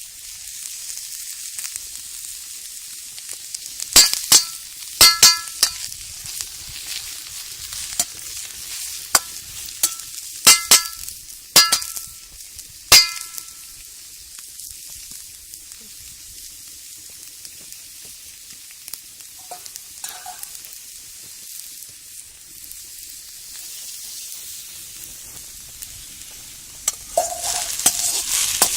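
Food sizzling in a Peking wok, with a run of sharp, ringing metal clinks between about 4 and 13 seconds in. Near the end the sizzling grows louder along with stirring.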